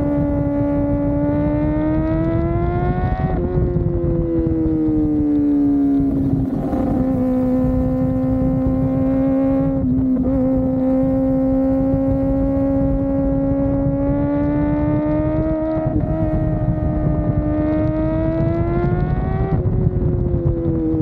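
Kawasaki ZX-4RR's 399 cc inline-four engine running at high revs on the move, its note climbing slowly and then falling away several times as the rider rolls on and off the throttle and changes speed. A low wind rush runs underneath.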